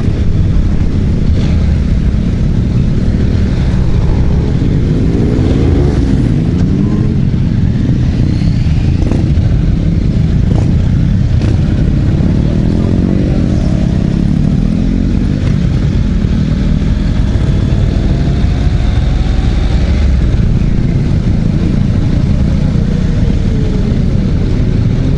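Motorcycle engines running in a group ride, with several engines rising and falling in pitch as they rev and change gear over a steady low rumble.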